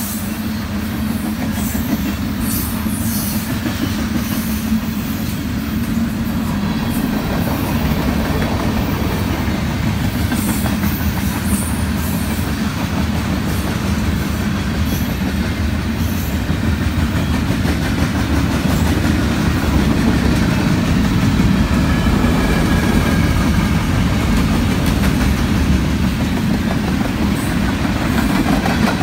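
Freight cars rolling past close by: a steady rumble of steel wheels on rail, with short high-pitched squeaks now and then in the first half.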